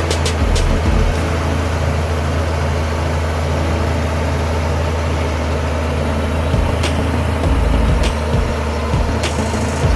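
Heavy diesel earth-moving machinery running steadily, with a few sharp metallic clanks scattered through.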